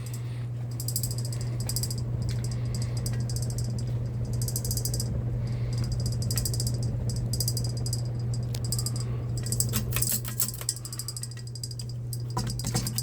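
Bahama 42-inch ceiling fan running, with a steady low motor hum. A high buzzing rattle comes and goes in short spells, and there are a few sharp clicks about ten seconds in.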